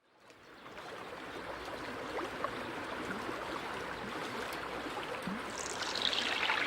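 Flowing-water ambience, a stream with small trickles and gurgles, fading in from silence as a song intro. A falling whoosh slides down in pitch near the end.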